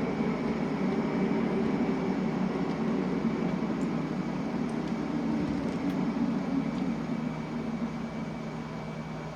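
London Underground train running, a steady rumble with a constant high tone above it, easing slightly in loudness near the end.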